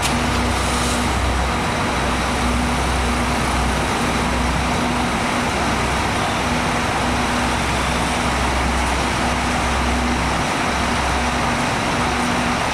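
Scania K410 double-decker coaches' diesel engines idling: a steady, heavy low rumble.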